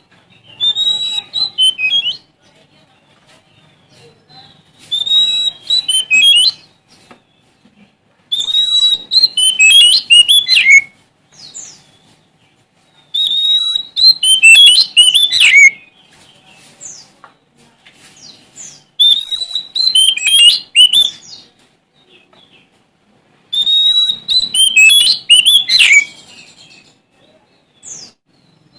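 Oriental magpie-robin (kacer) singing: six loud phrases of varied whistled, gliding notes, each one to three seconds long, with pauses of a few seconds between them.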